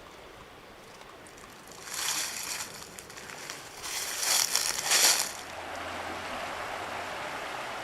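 Two short bursts of rustling, then from about five seconds in a steady rush of flowing river water.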